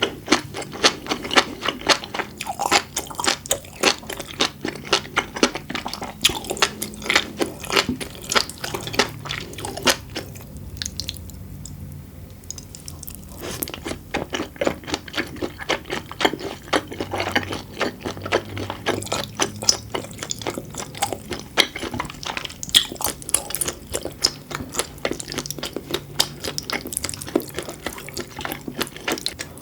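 Close-miked eating sounds: wet chewing with a dense run of small clicks and pops, from a mouthful of flying fish roe, beef tartare and sea grapes. There is a lull of about three seconds around ten seconds in.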